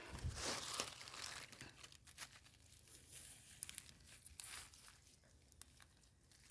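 Faint rustling and crackling of leaf litter and soil, with small snaps, as termite mushrooms are picked by hand. It is busiest in the first couple of seconds and thins out toward the end.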